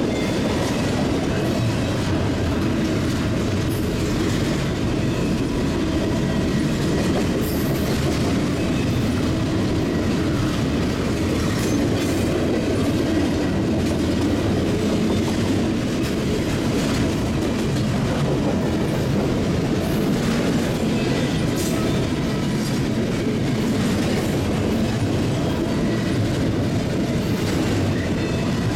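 Double-stack intermodal well cars rolling past: a steady rumble of steel wheels on rail with scattered clicks as the wheels cross rail joints.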